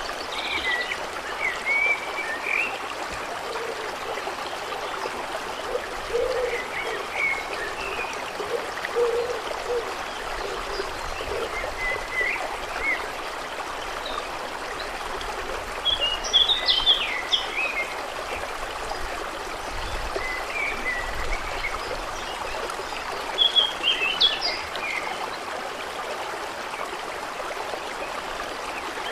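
Water running steadily with small birds chirping on and off over it; the chirps come in two louder bursts, one past the middle and one near the end.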